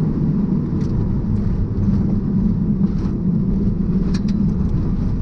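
Rally car's engine running under load, heard from inside the cabin over steady road and tyre noise; the engine note eases shortly after the start and pulls strongly again about two seconds in.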